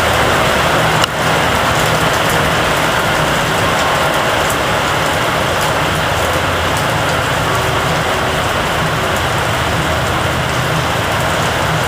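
Steady rain falling, an even hiss, over a low steady hum.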